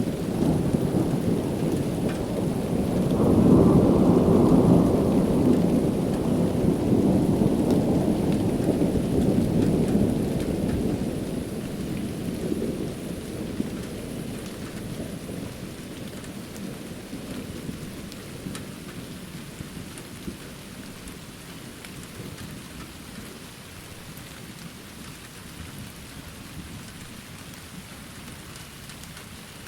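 Thunderstorm: a low roll of thunder swells about three seconds in and rumbles on before slowly fading away, over steady rain falling on surfaces.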